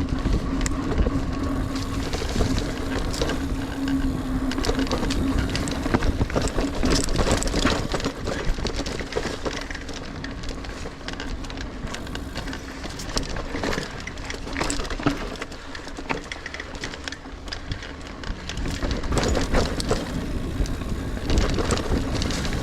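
Niner Air 9 RDO 29er mountain bike ridden over dirt singletrack: tyre rumble and wind noise, with frequent clicks and rattles from the bike over roots and bumps and a steady hum through the first half.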